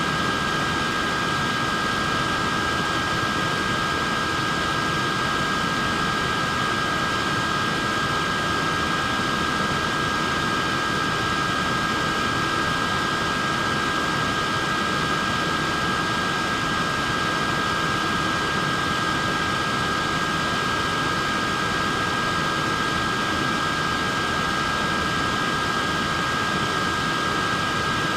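Wearable neck fan running steadily: a constant whoosh of air with a steady high-pitched motor whine.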